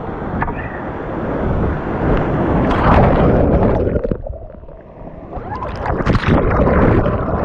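Whitewater of a Class III rapid rushing and splashing around a kayak as it runs through, with wind and water buffeting the microphone. The sound goes muffled for a few seconds in the middle, then the splashing returns.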